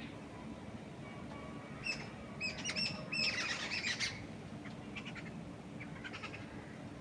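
A songbird chirping: a quick burst of repeated short, high chirps about two seconds in, lasting about two seconds, then a few fainter chirps. Under it runs a steady low rush of wind in trees.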